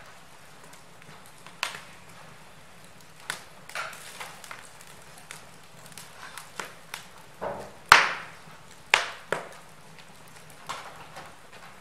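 Wood logs crackling in a fireplace: irregular sharp pops and snaps over a faint steady hiss, the loudest pop about eight seconds in.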